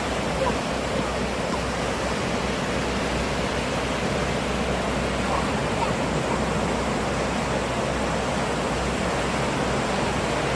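Sea waves breaking in a steady, continuous rush of surf.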